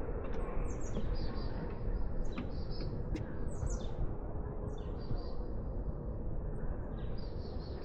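Small birds chirping repeatedly, short high calls and quick falling notes, over a steady low background rumble.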